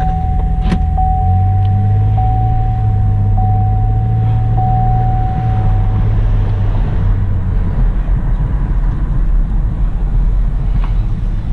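2008 Buick Enclave being driven on a brake test drive, with a steady low engine and road rumble. A steady high tone with a faint blip about every second sounds over it and stops about six seconds in.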